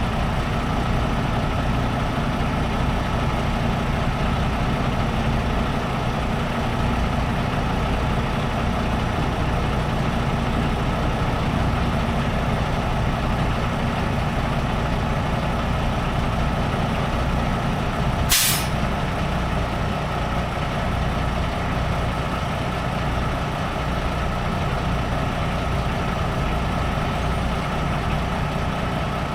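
Semi-truck diesel engine running steadily. About eighteen seconds in comes one short, sharp hiss of air from the truck's air brake system.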